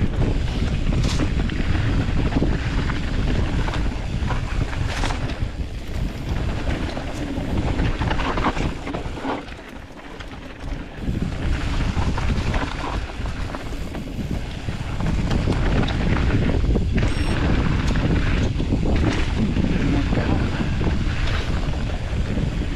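Wind buffeting the microphone and a Specialized Status 160 mountain bike's knobby tyres rolling fast over a dirt trail, with frequent rattles and knocks from bumps. The rush eases briefly about ten seconds in, then builds again.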